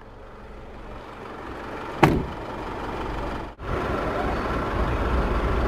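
Isuzu D-Max's 2.5 litre twin-turbo four-cylinder diesel idling, growing louder as the cab is left. A sharp door-latch click about two seconds in; after a brief break the idle is louder, with a stronger low rumble.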